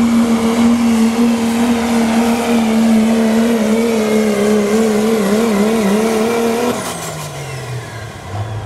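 Diesel pickup truck engine in the 3.0 diesel truck-pulling class, held at high revs under full load as it pulls the sled; its note wavers a little past the middle, then it lets off about seven seconds in and the revs fall away.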